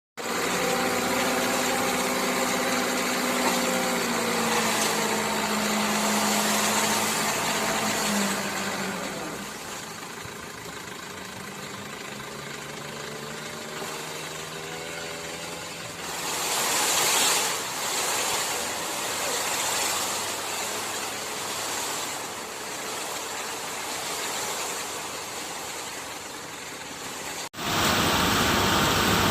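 Dump truck's diesel engine running, its pitch sinking a little about eight seconds in and growing louder for a short while around the middle. Near the end it breaks off abruptly into a louder, rougher engine sound.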